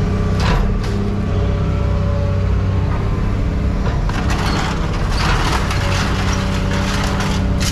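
A steady engine drone, with crunching and cracking noise and scattered knocks over it, densest about four to six seconds in.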